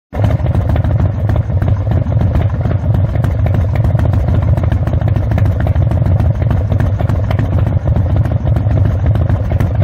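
Big Dog K9's S&S 117 cubic inch V-twin running steadily through its upgraded aftermarket exhaust: a loud, even, deep pulsing exhaust note. It starts abruptly and cuts off sharply at the end.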